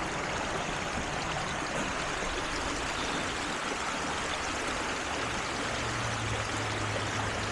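Creek water flowing steadily, an even rushing of moving water. A faint low hum joins about five and a half seconds in.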